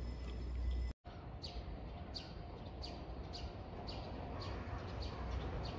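A small bird chirping over and over, short falling chirps about two a second, over a steady low background rumble. For the first second, before a sudden cut, there is only the low rumble with a faint thin high tone.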